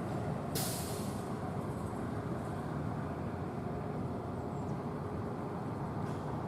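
Steady low rumble of a heavy vehicle engine and traffic, with one short hiss of air about half a second in.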